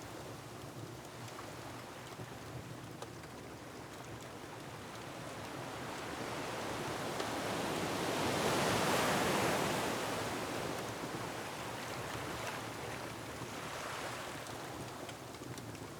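Ocean waves surging against a rocky shore: one wave swells to a peak about halfway through and then recedes, and a smaller one follows near the end. A wood fire crackles faintly underneath.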